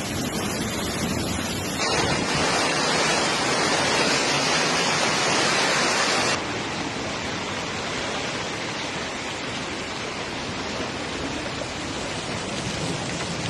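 Heavy hail falling: a dense, steady hiss of hailstones pelting down. It steps up sharply louder about two seconds in and drops back just as suddenly a few seconds later.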